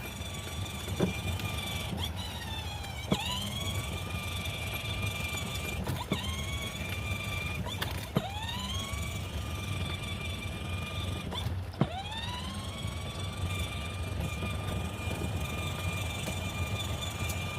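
Electric motor of a child's battery-powered ride-on toy car whining steadily as it drives. Each time the pedal is let off and pressed again there is a click, and the motor winds back up to speed, several times.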